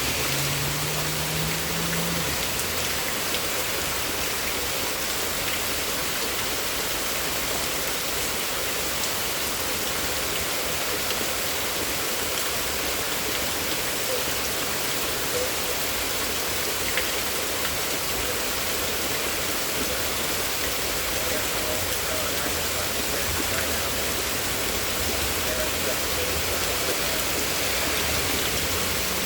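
Steady rain falling hard, an even dense hiss, with a brief low hum in the first couple of seconds.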